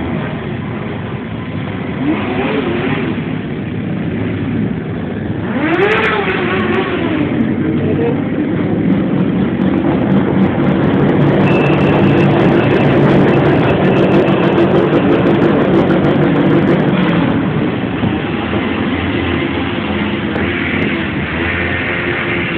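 Motorcycle engine running under way, revving up and back down twice in the first few seconds, then holding a louder, steadier pitch through the middle before easing off.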